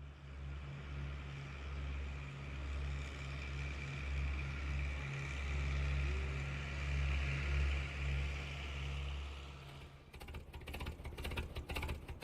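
Small electric gear motor of a DIY model tractor running with a steady hum and a high whine, dipping and swelling as the load changes. The hum fades about ten seconds in.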